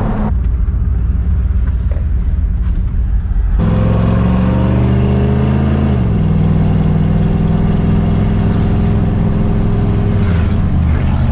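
A road vehicle's engine under way: a low rumble that grows louder about three and a half seconds in, then rises in pitch as it accelerates. It drops sharply at an upshift about six seconds in and runs steadily, shifting again near the end.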